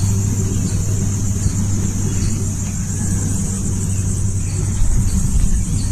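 Motorcycle engine running at a steady speed, a constant low hum, with a steady high-pitched hiss over it.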